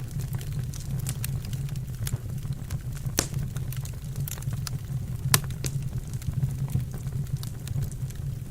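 Wood fire burning in a fireplace, with a steady low rumble and scattered sharp crackles and pops, two louder pops about three and five seconds in.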